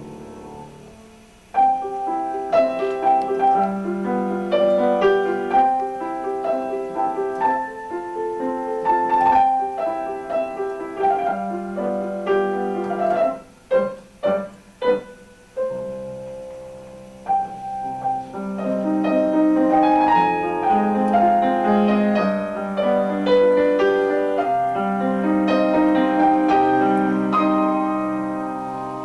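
Piano playing a melody over chords. A quieter passage gives way to louder playing about a second and a half in; midway there is a brief halting stretch of a few short, separate chords before the playing resumes fuller.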